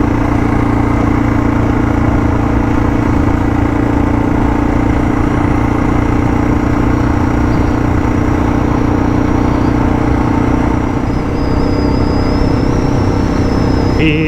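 Suzuki DR650's single-cylinder engine running at a steady cruise, its tone holding level while the motorcycle rides a gravel road.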